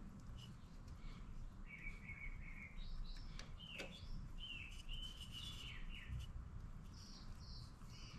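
Birds chirping in the background: a string of short high notes, some sliding up or down in pitch, starting about two seconds in.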